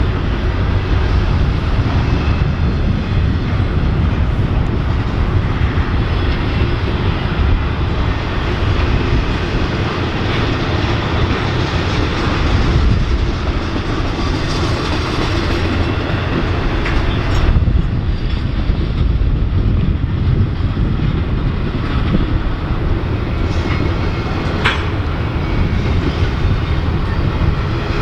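Norfolk Southern freight train rolling past close by: steady wheel-on-rail noise from the passing cars, with an occasional sharp click.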